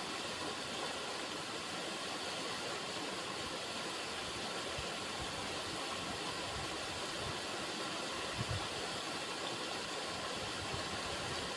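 River water running in a steady rushing flow, with a brief low thump about eight and a half seconds in.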